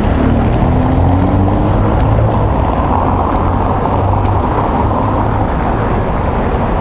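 A motor vehicle's engine running close by amid street noise, with a tone rising in pitch over the first couple of seconds.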